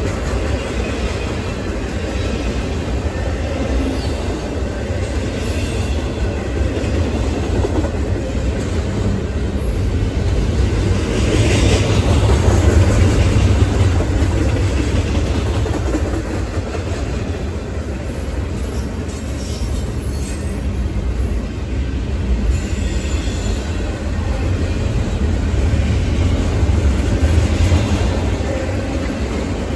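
Double-stack intermodal freight train rolling past: a steady low rumble and clatter of steel wheels on the rails. It swells louder around the middle and again near the end.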